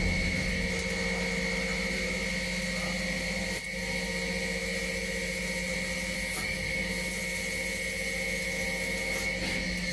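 CNC machine running with a steady high-pitched whine from its spindle motor, over a low mechanical hum.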